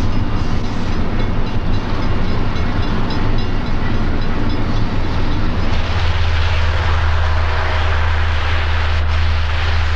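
Electric train running on the rails: a steady rumble and hiss under a low hum that grows stronger about six seconds in.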